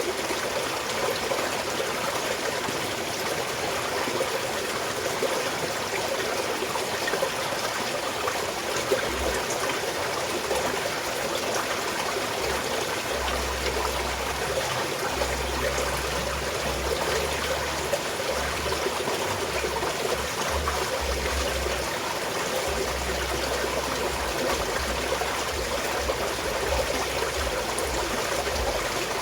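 Small mountain stream flowing and trickling steadily over rocks. A low rumble comes and goes from about a third of the way in.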